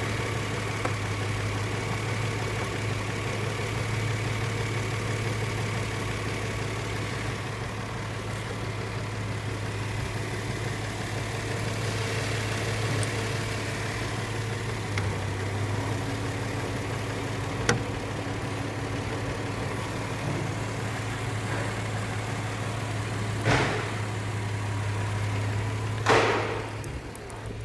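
Subaru Tribeca's EZ30D 3.0-litre flat-six engine idling steadily, run for an engine test. Two loud thumps come in the last few seconds, and the engine sound stops just before the end.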